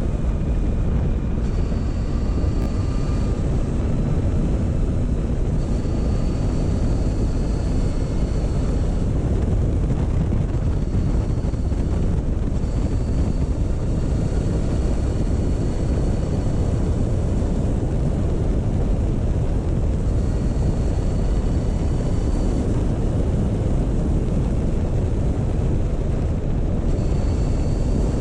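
Motorcycle running at a steady slow road pace, with wind rumbling on the microphone and a faint high whine that comes and goes every few seconds.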